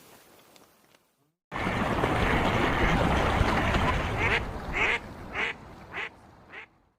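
Ducks quacking. After a brief silence it starts suddenly with a loud stretch of overlapping quacks, then about five separate quacks a little over half a second apart.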